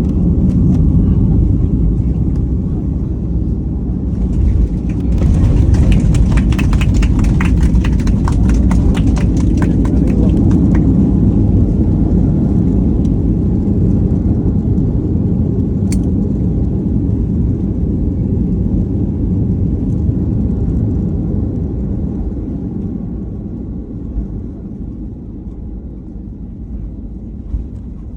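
Loud low rumble of an airliner's landing roll heard inside the cabin, with heavy rattling for several seconds early on. The rumble then slowly dies down as the aircraft slows on the runway.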